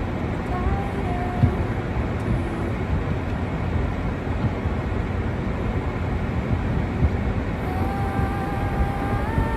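Steady outdoor rumble and hiss, with faint held tones near the end that step up in pitch.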